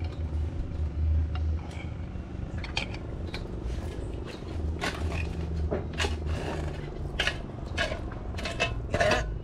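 Kitchenware clattering and scraping, a run of scattered knocks mostly in the second half, over a low rumble.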